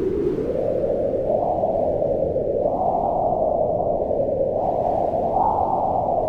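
Wind blowing in a steady rush that swells and eases. Its pitch drifts up and down, rising about a second and a half in, again around three seconds, and once more near the end.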